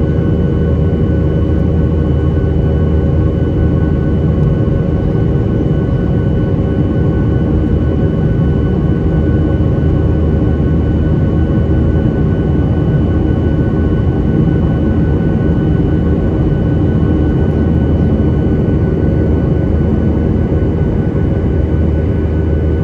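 Boeing 737-800 cabin noise: the jet engines running steadily, a constant low rumble with a few steady whining tones above it.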